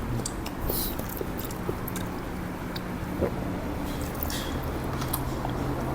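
Close-up eating of noodle soup: wet chewing and mouth sounds with a scatter of short sharp clicks.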